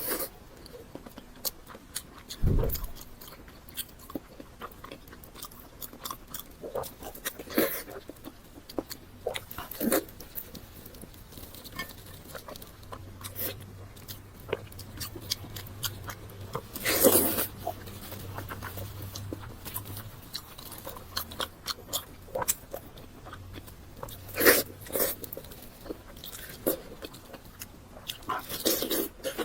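Close-up eating sounds: irregular crunchy bites and chewing, with a few louder crunches about halfway through and again near the end.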